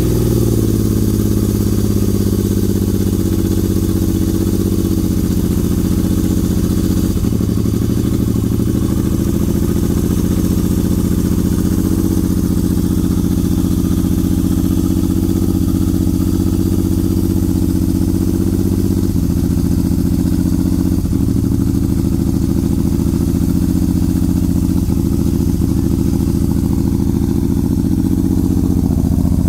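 1977 Yamaha XS750-2D's 750 cc three-cylinder engine idling steadily through a Jardine exhaust.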